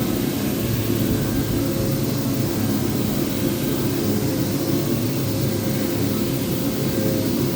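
Power sander running steadily on a wooden top, a continuous motor hum and sanding noise with a faint held tone.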